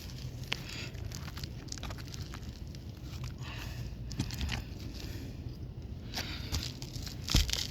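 Asphalt roof shingles being handled and lifted, crinkling and scraping with scattered small clicks, and a single thump near the end.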